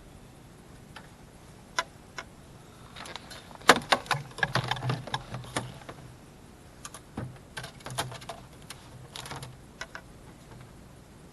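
Irregular clicks, knocks and clatter of fishing gear being handled and set down in a jon boat while it is readied for launch. The busiest, loudest knocking comes about four to five seconds in.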